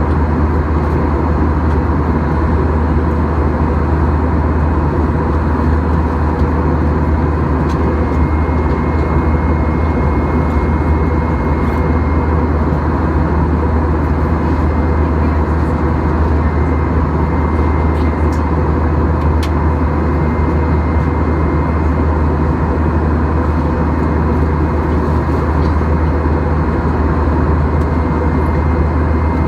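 Steady jet cabin drone inside a Boeing 737-800: its CFM56 engines and rushing air making a constant deep rumble with a faint thin whine above it.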